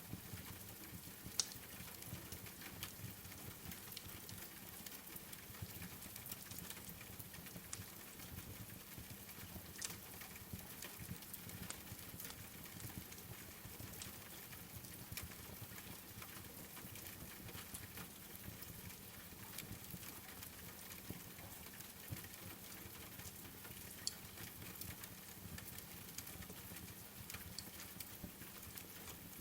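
Wood fire crackling with scattered small pops over a steady hiss of rain, with two louder pops, one about a second in and one well past the middle.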